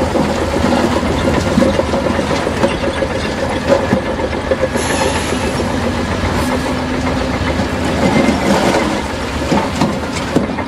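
Crawler bulldozer's diesel engine running under load with the clanking and rattle of its steel tracks.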